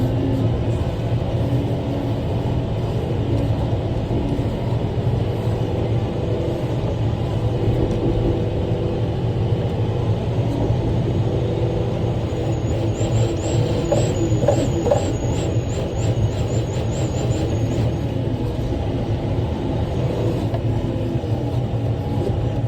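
Large rock truck's diesel engine running steadily under way, heard from inside the cab. About halfway through, a faint high chirping repeats about twice a second for some five seconds, with a few knocks at the same time.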